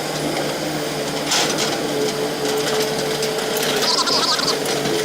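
A machine running with a steady hum at a constant pitch.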